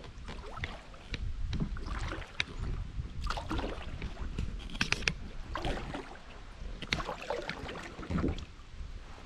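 Kayak paddle dipping and pulling through river water: repeated splashes and drips, about one stroke every second or so, over a low steady rumble.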